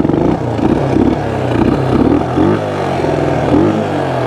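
1974 Honda XL175's single-cylinder four-stroke engine revving up and down repeatedly while the bike is ridden.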